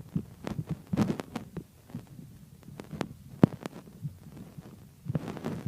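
Irregular soft thumps mixed with sharp clicks, a few to the second, with no steady rhythm.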